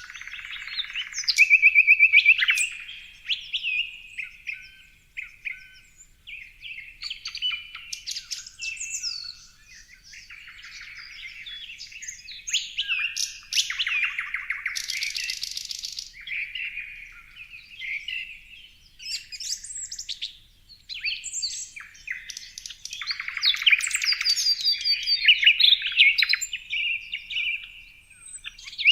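Several small birds chirping and singing in a busy mix of short chirps, rapid trills and whistled notes, with a brief buzzy trill about halfway through.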